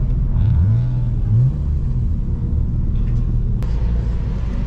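Car engines idling with a steady low rumble, and one engine blipped twice in quick rising revs about half a second in. A single sharp click comes near the end.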